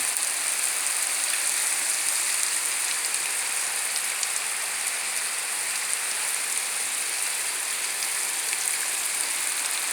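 Heavy rain falling steadily, a constant hiss with scattered drop ticks.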